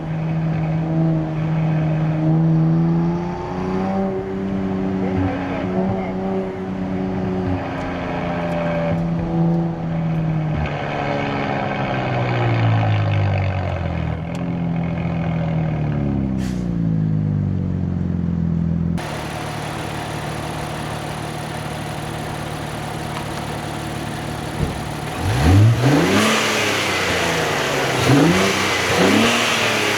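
Nissan Z Nismo's twin-turbo V6 running through the Nismo track exhaust and cold air intakes on the move. It holds a steady note, then its revs fall away. Near the end, after an abrupt change in the sound, it revs up and drops back several times in quick succession.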